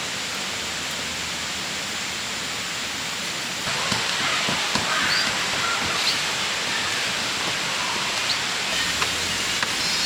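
Steady rushing of a river. About a third of the way in it gets a little louder, with a few faint clicks and short high chirps over it.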